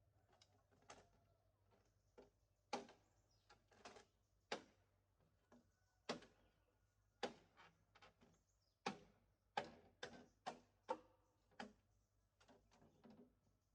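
A series of sharp knocks or strikes at an uneven pace, roughly one or two a second, each with a brief ringing tail.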